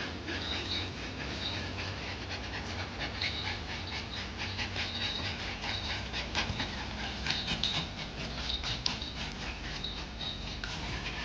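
Pomeranian dogs panting rapidly while mating, with brief high-pitched squeaks coming and going.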